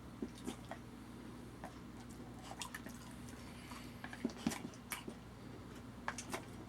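Dog eating food off a fork, with wet mouth smacks and clicks in short clusters, busiest about two-thirds of the way through.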